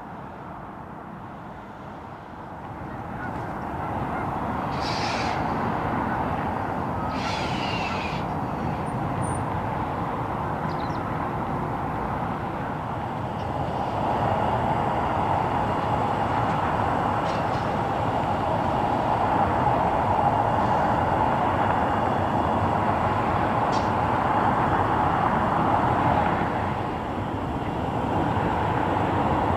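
A narrow-gauge railway train running, a steady noisy rumble that swells about three seconds in and then holds, with a few brief high hissing streaks early on.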